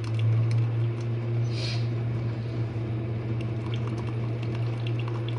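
Jenn-Air dishwasher running mid-cycle: its pump motor gives a steady low hum under the rush and slosh of water spraying inside the tub, with a brief hiss about a second and a half in.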